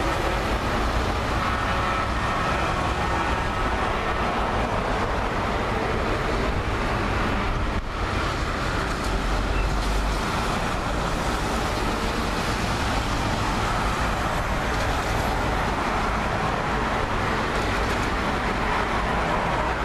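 Tractor engines running in a steady, continuous rumble of engine noise.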